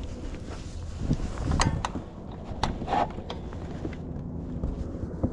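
Wind rumbling on the microphone, with a few sharp clicks and knocks in the middle.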